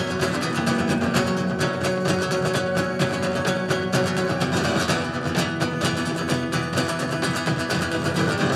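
Acoustic guitar strummed in a fast, steady rhythm, played live.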